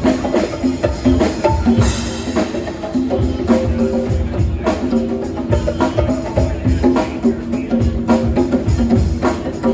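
Live rock band playing: drums keeping a steady beat under sustained guitar or keyboard notes.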